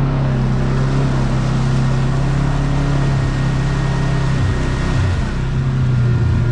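Kawasaki KRX side-by-side's 999 cc parallel-twin engine running at a steady speed under way, with a brief dip in engine note about five seconds in.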